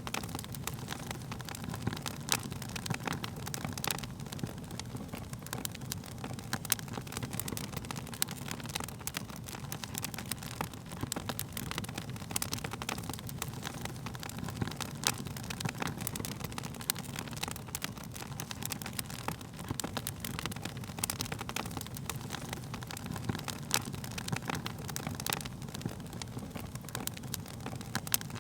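Wood fire burning steadily with a low rumble of flames and frequent irregular crackles and pops of burning wood.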